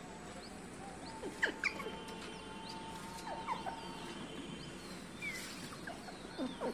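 Birds chirping: short scattered calls, several of them quick downward sweeps, with a long thin steady whistle-like tone running under them for a few seconds.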